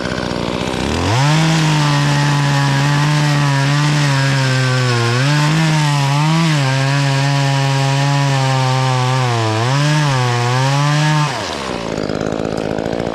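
DeWalt 60V battery top-handle chainsaw spinning up about a second in and cutting through pine, its steady electric whine dipping in pitch twice as the chain loads in the wood, then spinning down near the end.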